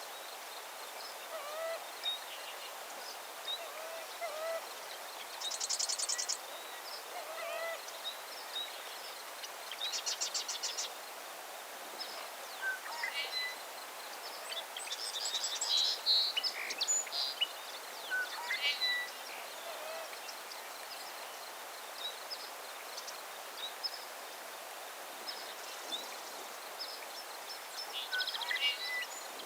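Several birds chirping and singing over a steady background hiss, with short high-pitched rapid trills about six and ten seconds in and a busier stretch of song in the middle.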